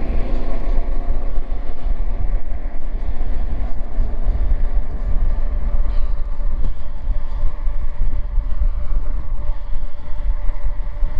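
Wind rumbling on the microphone of a moving e-bike, with a steady droning hum over it. The hum is strongest in the first half and then thins to one steady tone.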